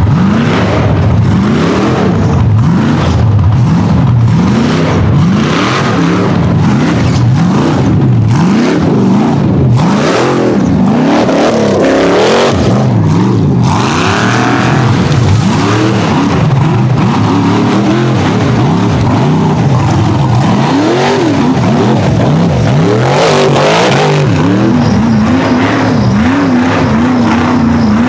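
Off-road race vehicle engines revving hard and repeatedly, the pitch climbing and dropping every second or so. Near the end the engine holds a steadier pitch.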